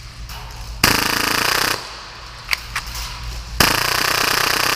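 Full-auto Tokyo Marui Hi-Capa gas blowback airsoft pistol firing at about 30 rounds per second. A short burst comes about a second in, then a couple of single pops, then a long steady burst starts near the end.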